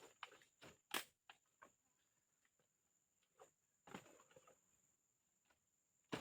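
A few faint, scattered knocks and rustles, the sharpest about a second in and another near four seconds, over a steady high-pitched insect drone.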